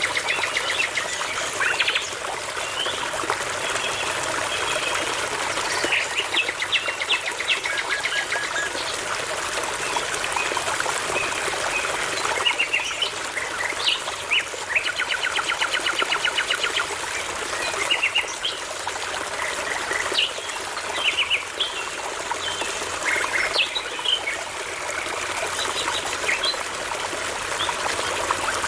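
Several songbirds singing, with clear whistled notes and rapid repeated trills, over the steady rush of a babbling brook.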